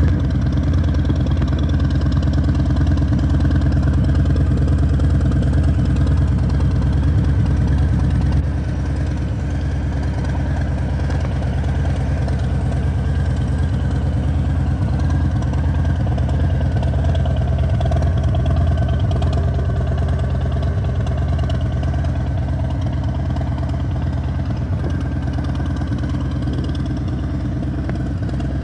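Harley-Davidson Deluxe's V-twin engine idling steadily, a little quieter from about eight seconds in.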